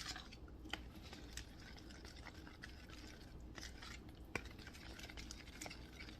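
Faint kitchen handling sounds: scattered soft clicks and light scrapes of a utensil against a dish, over a low steady hum.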